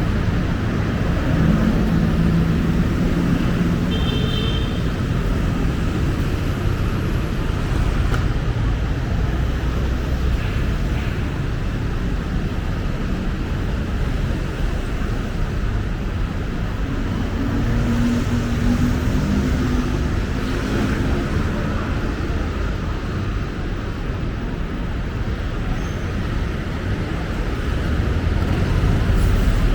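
Steady city road traffic: cars and other vehicles running past, with a continuous low engine rumble that swells again around two-thirds of the way through. A brief high tone sounds about four seconds in.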